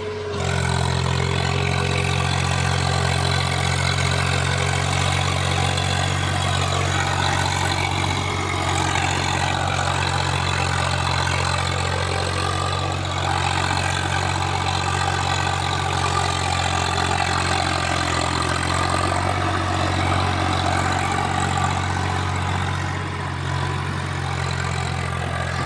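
Tractor diesel engine running steadily at high throttle, pulling under load.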